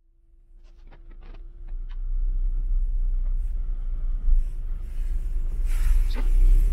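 Gusty wind buffeting the microphone, a low rumble that builds after a few handling clicks about a second in.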